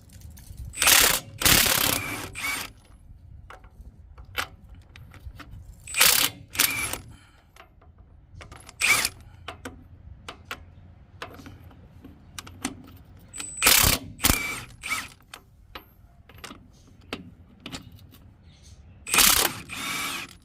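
Milwaukee impact wrench hammering in about five short bursts a few seconds apart, loosening the lug nuts on a truck wheel.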